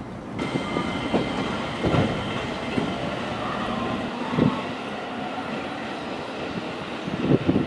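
Freight train rolling past: steady rumble of the cars, with heavy wheel clacks over rail joints coming irregularly, about once a second.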